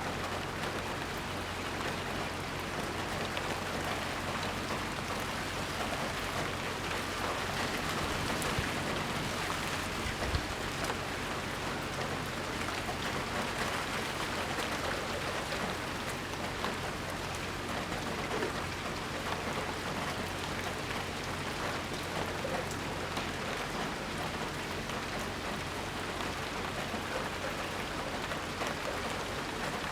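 Steady heavy rain falling and pattering on surfaces, a dense even hiss with many fine drop ticks. A single brief knock sounds about ten seconds in.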